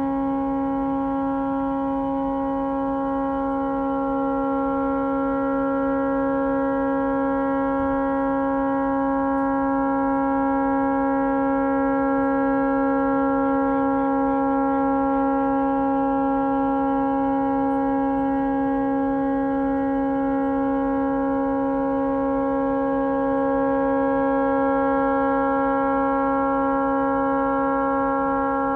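A tugboat's horn blaring as one unbroken steady chord, stuck on by a malfunction and unable to be shut off.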